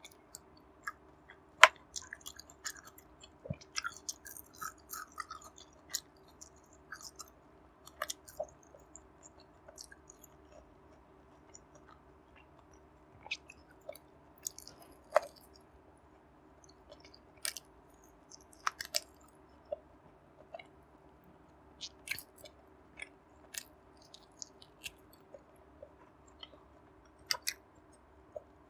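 A person chewing barbecued pork belly close to the microphone, with irregular wet mouth clicks and smacks.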